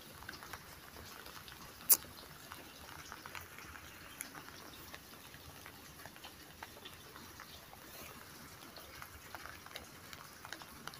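Faint rain patter with scattered small ticks, and one sharp click about two seconds in.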